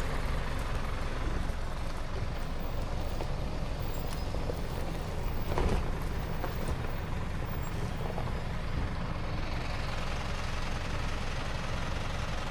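Off-road vehicle's engine running steadily under a broad rushing noise, with a short knock about six seconds in.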